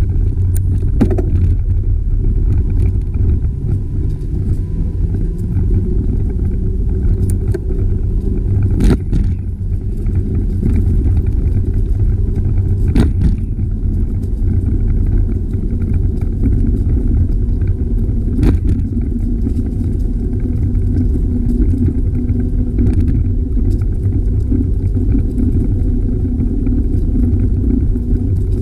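Wind buffeting the microphone during a bicycle ride: a loud, steady low rumble, with a few sharp clicks along the way.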